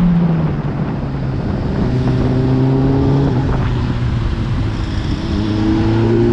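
Motorcycle engine under way, pulling up in revs, dropping briefly at a gear change a little past halfway, then pulling up again.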